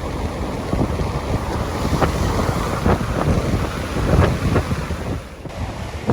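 Strong wind buffeting the microphone: a low, rough rumble broken by irregular gusting thumps, easing briefly near the end.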